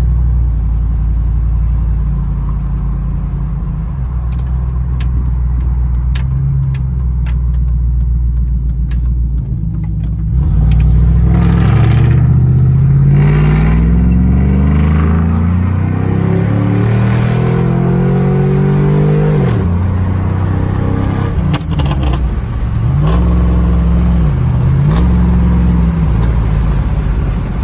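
2005 Chevy Silverado's 5.3 V8 through a single 3-inch Magnaflow muffler with no catalytic converters, driving: a steady loud drone at first, then about ten seconds in the engine gets louder and pulls hard. Its pitch climbs, drops back sharply and climbs again several times as it accelerates.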